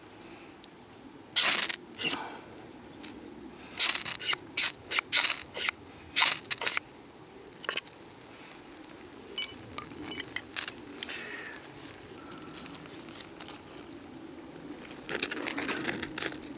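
Sharp knocks and clatter from hard objects being handled and set down, in irregular runs, with one short ringing metallic clink about nine and a half seconds in.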